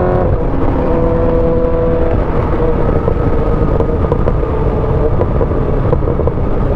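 Motorcycle engine running at a steady speed on the move, its pitch holding level, under heavy wind noise on the microphone.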